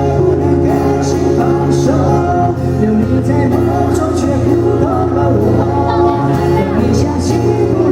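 Live band playing a slow ballad, with a male singer's voice over bass, keyboard and cymbal hits.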